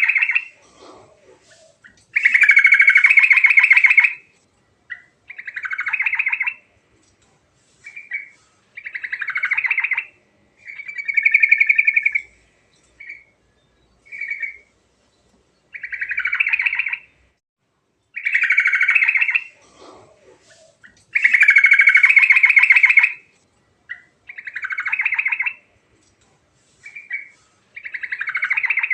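Yellow-vented bulbul (trucuk) singing: a string of short phrases, each about half a second to two seconds long, with brief pauses between them.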